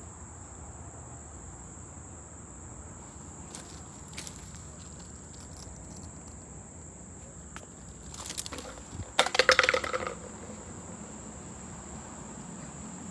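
Insects, crickets or similar, trilling in one continuous high-pitched note over a low steady hum. About eight to ten seconds in there is a short, louder burst of crunching, rattling clicks.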